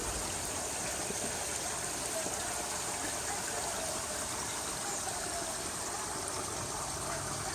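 Steady rush of running water from backyard garden ponds.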